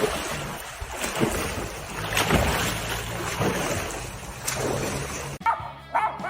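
A steady rushing noise, like wind buffeting the microphone, with several dull thumps. Near the end it cuts to a dog yipping a few times.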